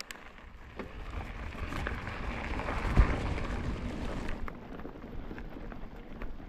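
Full-suspension mountain bike riding off along a forest trail: tyre and wind noise that builds over the first few seconds, with one sharp thump about three seconds in.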